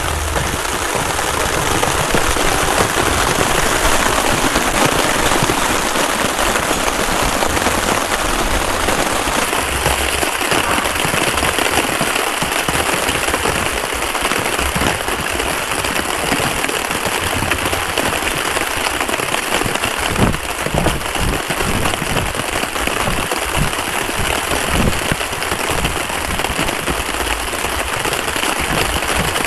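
Heavy rain falling steadily, a dense hiss with many small taps of drops landing on a plastic tarp shelter.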